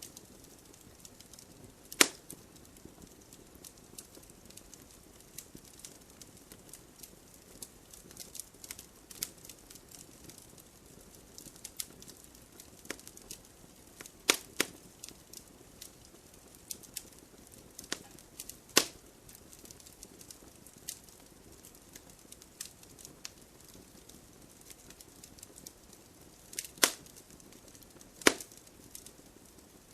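Wood fire crackling in an open fireplace: a steady scatter of small ticks and snaps over a faint low hiss, with five sharper, louder pops spread across the stretch.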